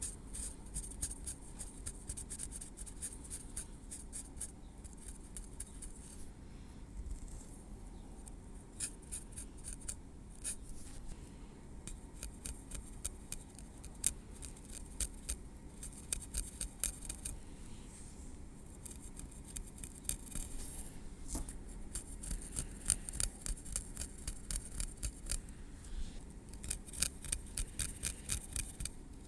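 Tweezers clicking and scratching through hair against the scalp: rapid runs of small crisp ticks with short pauses between them.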